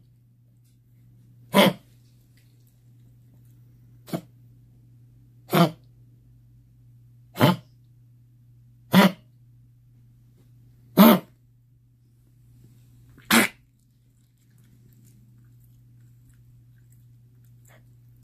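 Pomeranian puppy with kennel cough giving short, single honking coughs, seven of them one to two and a half seconds apart, stopping about three-quarters of the way through.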